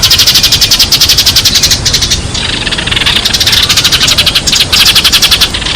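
Sparrows chirping in a fast, continuous chatter of short high chirps.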